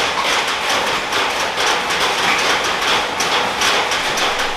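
Steady heavy rain: a dense hiss with an irregular patter of drops.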